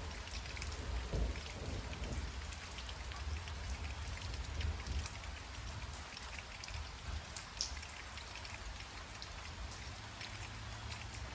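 Steady light rain falling on a lake shore, many separate drops striking close by over a soft hiss. A low rumble swells underneath about a second in and again around the middle.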